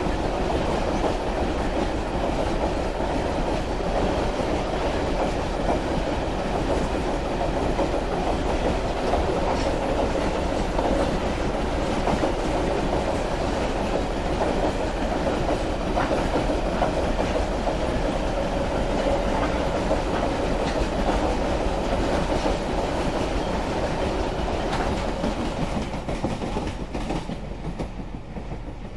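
Loaded coke hopper wagons of a long freight train rolling past at close range, a steady noise of steel wheels running on the rails. The sound fades near the end as the last wagon moves away.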